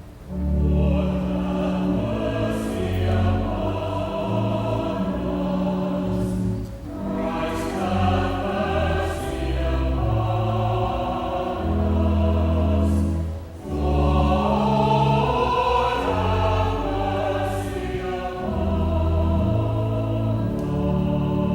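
Choir singing a slow sung response in three phrases, over accompaniment holding sustained low notes.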